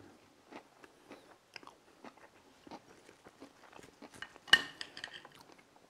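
A person chewing crispy breaded fried chicken, with small irregular crunching crackles of the fried crust. About four and a half seconds in, a single sharper knock with a brief ring.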